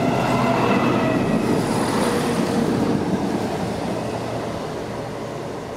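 Class 175 diesel multiple unit passing, its rumble loudest at the start and fading steadily as it draws away, with thin high tones over it in the first two seconds.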